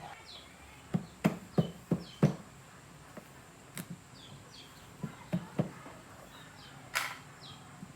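Sharp knocks: a quick run of five about a third of a second apart, a single one, a run of three, then one more near the end. Faint short bird chirps throughout.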